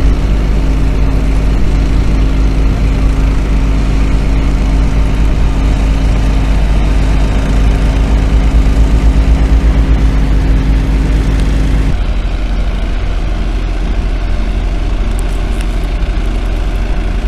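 Engine running steadily at a constant speed. Its sound changes abruptly and becomes a little quieter about twelve seconds in.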